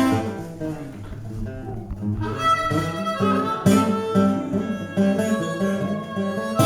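Guitar playing the instrumental opening of a song, with a fuller, denser sound from about two seconds in.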